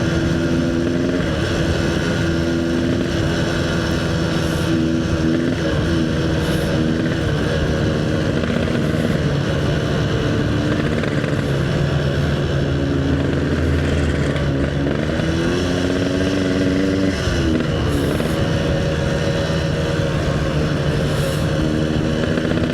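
Yamaha RX-King's single-cylinder two-stroke engine running under way, its pitch holding steady for long stretches, rising about two-thirds of the way through and dropping back briefly as the throttle changes.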